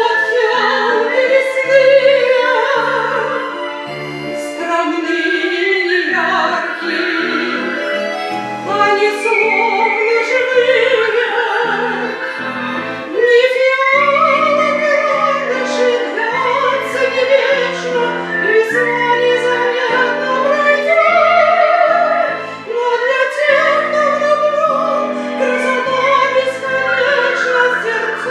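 A classical romance: a voice singing with wide vibrato over piano accompaniment.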